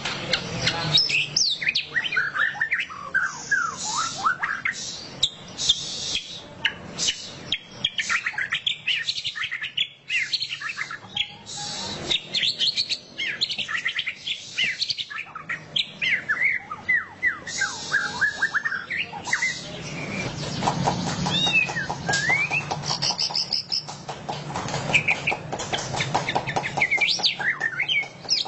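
White-rumped shama (murai batu) singing a rapid twittering chatter of quick rising and falling whistled notes, the 'ngeriwik' style. About two-thirds of the way through, the song turns into a buzzy rattling run.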